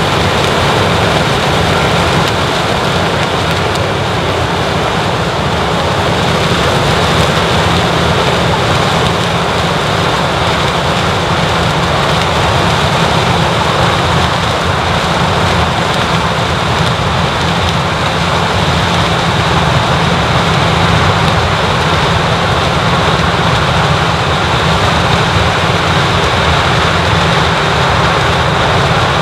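Heavy harvest machinery running steadily in a corn harvest: a constant engine drone under a broad rushing noise, unchanging.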